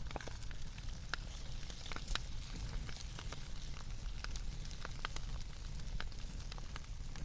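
Crackling wood fire: irregular pops and snaps, a few a second, over a steady low rumble.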